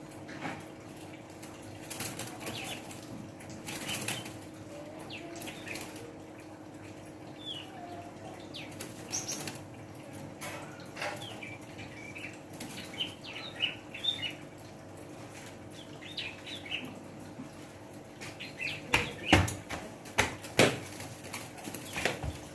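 Pet prenjak (prinia) giving short high chirps, with fluttering wings and scattered sharp taps. A few louder knocks come near the end.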